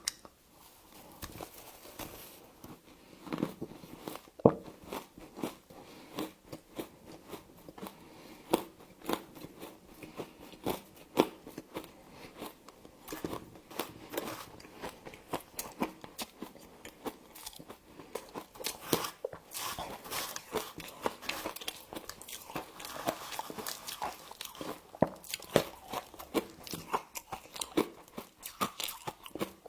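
Close-up biting and crunching of frost, a quick irregular run of sharp crunches and crackles with chewing in between.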